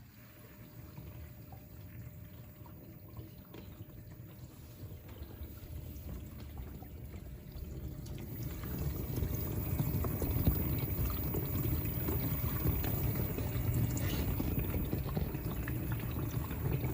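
Water rushing and splashing inside an LG dishwasher, growing louder over the first several seconds and then holding steady.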